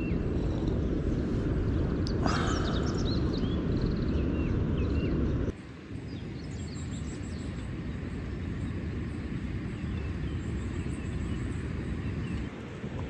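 Outdoor ambience: birds chirping over a steady low rumble. The background shifts abruptly about halfway through, then the chirps continue more faintly.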